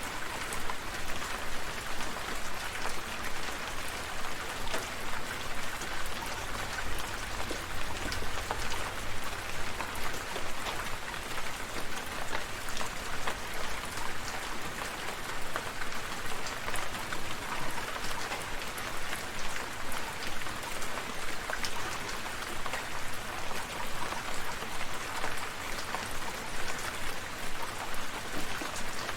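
Steady rain falling: a continuous hiss dotted with many separate drops ticking on surfaces.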